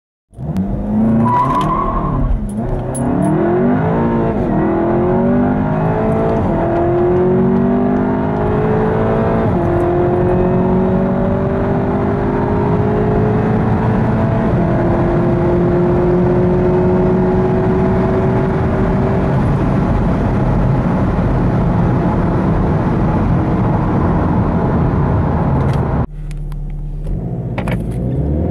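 SEAT Leon Cupra's turbocharged 2.0-litre four-cylinder under full-throttle acceleration, its pitch climbing through several upshifts with each gear lasting longer than the last. Near the end the engine sound drops off suddenly, then starts to climb again.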